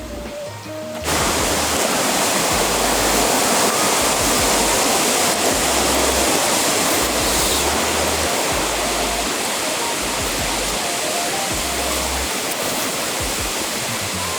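A steady rushing noise cuts in suddenly about a second in and holds, over background music.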